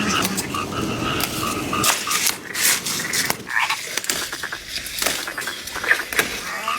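Frogs croaking in a pulsed series during the first two seconds, with scattered sharp clicks and knocks.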